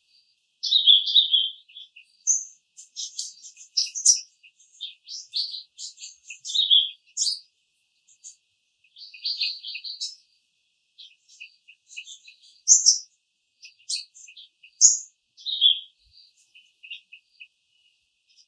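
Small songbirds chirping and trilling, a busy run of short high notes in quick clusters with brief pauses between them.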